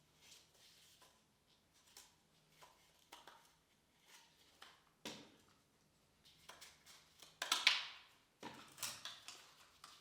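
Irregular light knocks, clicks and scrapes of hard objects being handled, with a sharp knock about five seconds in and a louder, longer scrape about seven and a half seconds in.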